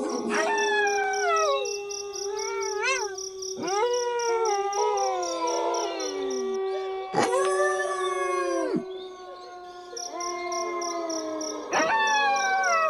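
A pack of wolves howling in chorus: several overlapping howls, most sliding down in pitch, one held on a steady note throughout, with short rising-and-falling yips about three seconds in and near the end. A high, evenly pulsing chirp runs behind them.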